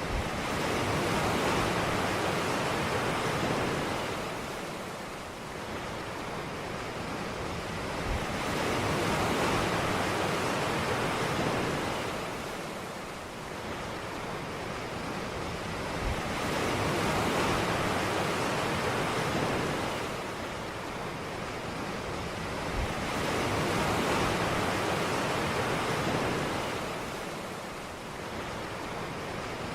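Ocean surf on a beach: waves breaking and washing in, the rush of water swelling and fading about every seven to eight seconds, four times.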